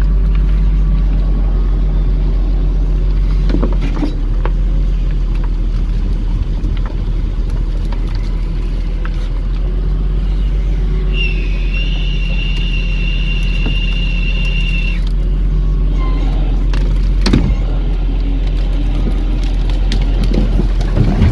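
Volvo grapple truck's engine running steadily while its hydraulic grapple boom unloads a load of brush, with a few scattered knocks. About eleven seconds in, a high steady whine comes in and holds for about four seconds, then stops.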